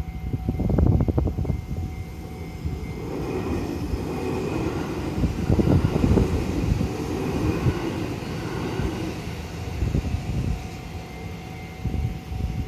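A train passing: a smooth rushing noise swells, peaks midway and fades away, over a low rumble with irregular low thumps near the start.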